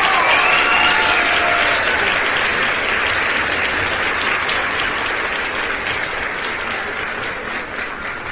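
A large crowd applauding, with a few shouts over the clapping in the first two seconds. The applause slowly dies down toward the end.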